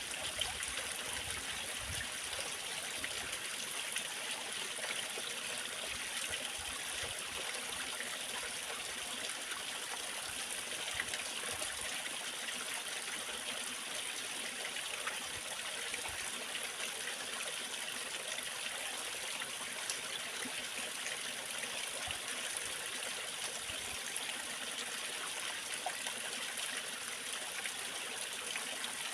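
Waterfall: water falling and running steadily, an even rushing hiss that never lets up.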